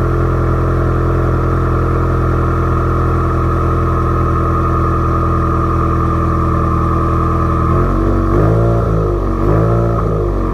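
Subaru WRX's turbocharged flat-four idling through a catless exhaust with no mufflers, then blipped twice in quick succession near the end, the pitch rising and falling each time, before settling back to idle.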